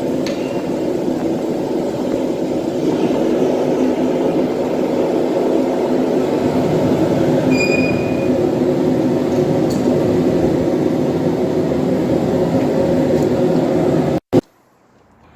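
A steady mechanical drone with a low hum, as from a motor or blower running. It stops abruptly about a second before the end, with a single click.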